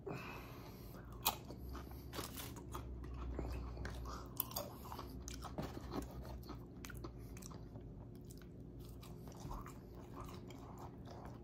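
A person chewing and crunching tortilla chips, with scattered crisp crunches; the sharpest come about a second in and again around four and a half seconds.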